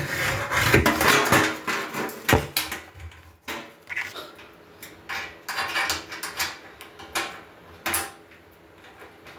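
Metal grill parts clanking and rattling as they are handled during assembly. The clatter is busiest for the first three seconds, then thins to scattered single knocks.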